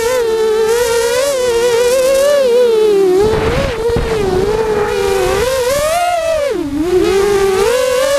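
FPV quadcopter's brushless motors whining in flight. The pitch rises and falls constantly with throttle and dips low for a moment about six and a half seconds in, then climbs back up.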